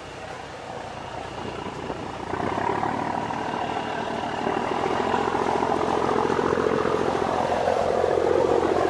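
A boat's engine running with a fast, even throb, growing louder from about two seconds in.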